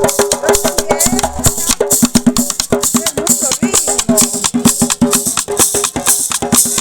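Live Colombian-style band music: a steady dance beat carried by shaken maracas and other percussion, with pitched instrument notes over it.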